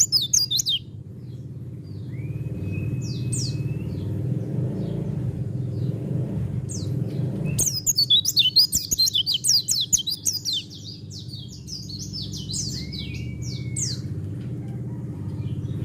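White-eye (pleci) singing: a brief burst of fast, high twittering just after the start and a longer one from about halfway, with a couple of single drawn-out whistles in between, over a steady low hum.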